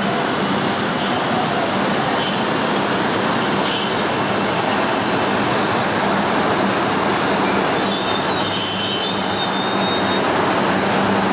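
Coupled E5 and E6 series Shinkansen train moving along the station platform: a steady loud rolling rush with a low hum, and a thin high squeal that comes and goes. Several higher squeals sound together about eight seconds in.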